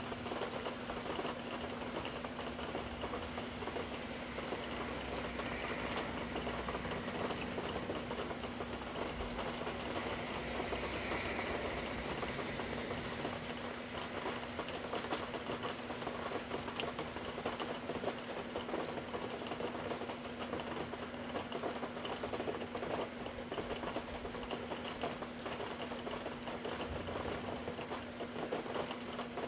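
Steady patter of rain, many small drops ticking without let-up, over a low steady hum.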